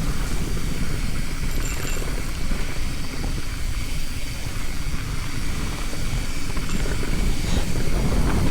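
Wind rumble on the microphone together with the tyre and frame noise of a mountain bike riding down a dusty dirt trail.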